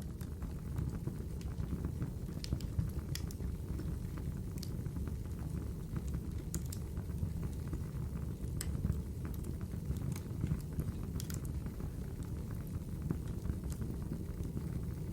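Wood fire in a fireplace burning with a steady low rumble, with scattered sharp crackles and pops from the burning wood, a dozen or so at irregular intervals.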